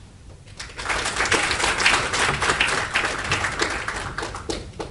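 Audience applauding. The applause starts about half a second in and thins to a few last separate claps near the end.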